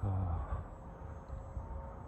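A brief low hum in the first half second, then the faint, steady, thin whine of a 50 mm electric ducted fan driving an RC jet in flight.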